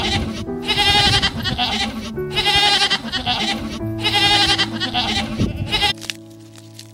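Goats bleating, about four long quavering bleats in a row, which stop about six seconds in. Background music with sustained tones plays underneath.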